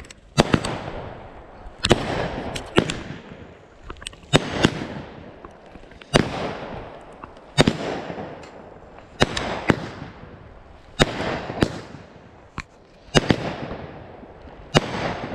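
Consumer fireworks cake (multi-shot repeater) firing a string of sharp bangs, about one a second, each trailed by a hiss that fades.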